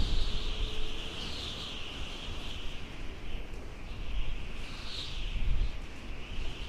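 Outdoor ambience: a steady high-pitched buzzing of insects that swells and fades every second or so, over a low rumble.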